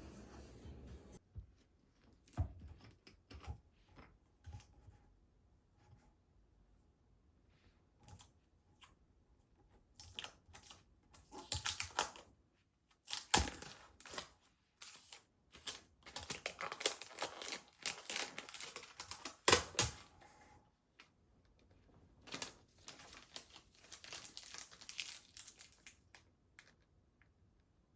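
Crinkling and rustling handling noise with scattered clicks and taps, coming in dense bursts through the middle and again near the end.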